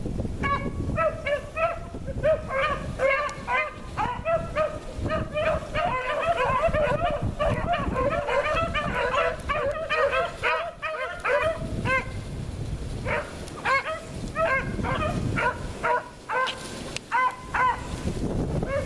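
A pack of hounds barking in rapid, overlapping chops while running a track, with wind rumbling on the microphone. The barking thins out about twelve seconds in, then picks up again.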